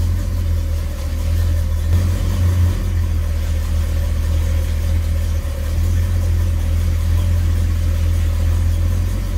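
The 1971 Oldsmobile Cutlass's V8 engine idling steadily while the power steering is worked, the steering wheel turned back and forth.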